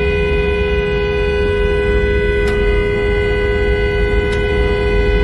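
A car horn held in one long, unbroken blast over the low rumble of the car on the road.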